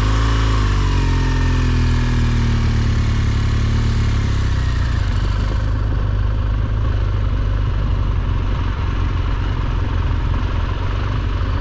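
BMW R1200GSA's flat-twin engine pulling away: the note climbs at the start and then eases down over the next few seconds into steady riding, with engine, wind and road noise.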